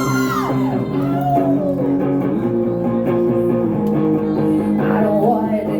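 Live music: a single guitar strumming sustained chords, with a held sung note fading out at the start and short sung phrases later.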